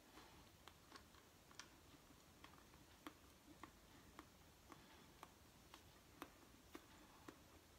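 Faint mouth clicks and smacks of someone chewing soft food close to the microphone, about two small clicks a second.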